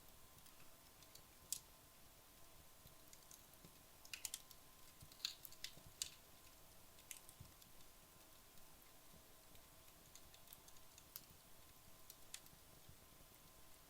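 Wood logs burning in a fireplace, crackling faintly: sparse sharp pops and ticks, with a quick cluster about four to six seconds in.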